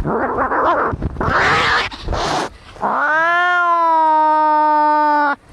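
Angry cats fighting: harsh growling and hissing for the first couple of seconds. Then, about three seconds in, one long, steady yowl, a caterwaul that rises at its start, holds level for over two seconds and cuts off abruptly.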